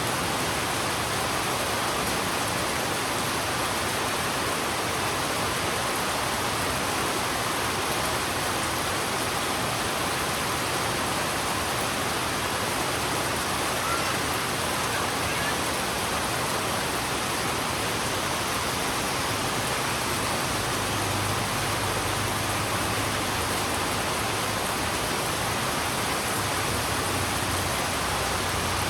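Heavy rain falling steadily on a road, an even hiss with no breaks. A faint low hum joins about two-thirds of the way in.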